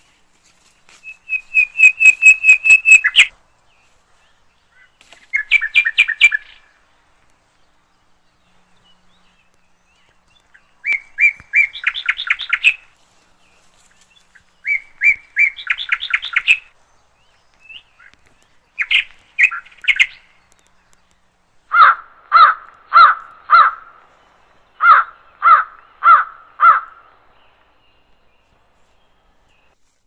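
Bird calls in about seven loud bursts of rapidly repeated notes, separated by silent gaps. The last two bursts are slower runs of four or five lower, harsher notes, about two to three a second.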